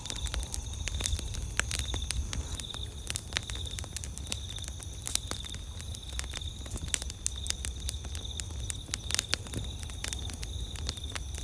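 Campfire crackling with frequent irregular pops and snaps of burning wood, over a low rumble. Insects chirp steadily in the background in a high, evenly pulsing tone.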